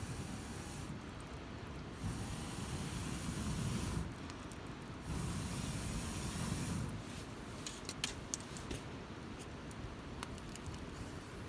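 Wood campfire burning with a steady hiss, two low rumbling swells in the first half, and a few sharp crackling pops in the second half.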